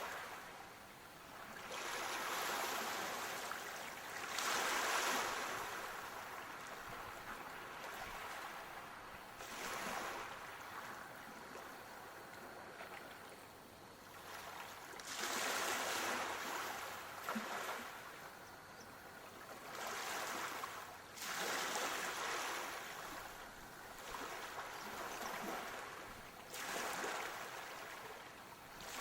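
Ocean surf: waves swelling and fading every few seconds.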